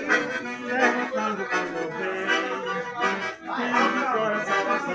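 Accordion music: a melody over held chords, with notes changing quickly.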